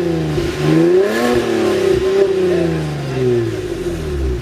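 Car engine revved with the throttle blipped, its pitch climbing and falling back about two or three times.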